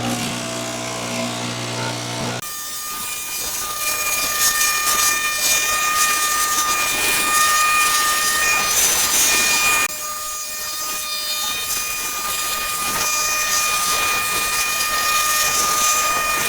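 A power tool running steadily, a high whine over a loud hiss, broken by sudden cuts about two and ten seconds in.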